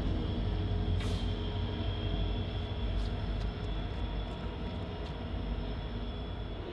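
Train passing on the Norfolk Southern main line: a steady, low running sound with faint high steady tones and a few short clicks.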